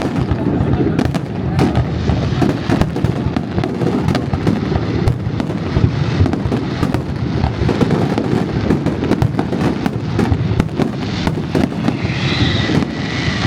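Large fireworks display: rapid, continuous bangs and crackles over a dense low rumble of booms. A faint high tone sounds briefly near the end.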